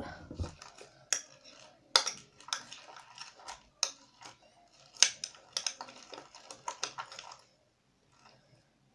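Spoon tapping and scraping against a mixing bowl while stirring slime: a run of irregular clicks and knocks that stops about seven and a half seconds in.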